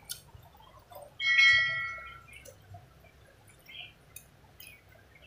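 Close-up eating sounds: soft wet clicks of chewing and lip smacks as rice and fish are eaten by hand. About a second in, a single bright ring like a small bell or struck glass sounds and dies away within a second.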